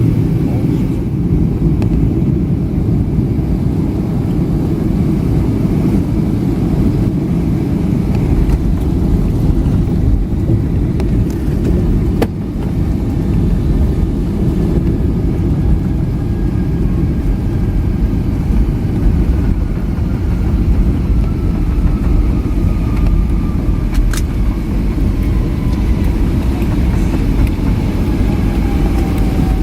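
Steady low roar of engines and airflow inside the cabin of a Boeing 757-300 jetliner on approach. In the second half a faint whine slowly falls in pitch, and there are two brief clicks, about halfway through and near the end.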